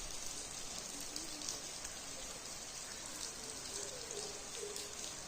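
Falling water spattering steadily onto rocks, a continuous hiss with small scattered drips and splashes.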